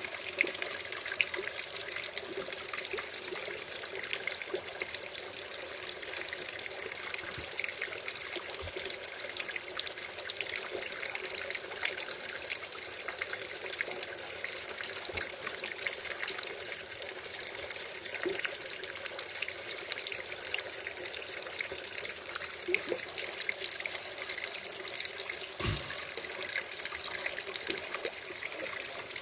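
Hot mineral spring water pouring and splashing steadily, with a few faint knocks.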